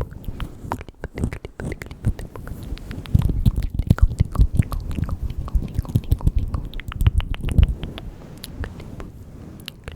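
Close-microphone ASMR mouth sounds: a rapid run of wet clicks and smacks. Soft low thumps come thicker and louder from about three to eight seconds in.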